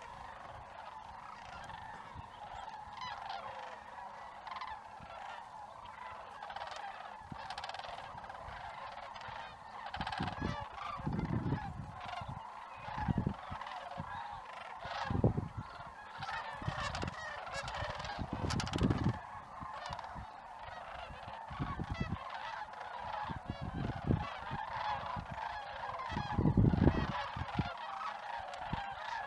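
A large flock of geese honking in a dense, unbroken chorus of overlapping calls. Short low rumbles come and go from about a third of the way in.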